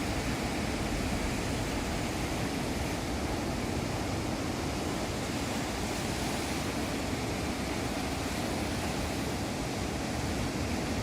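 Steady roar of heavy surf, typhoon swell breaking along the coast, mixed with wind, with no separate crashes standing out.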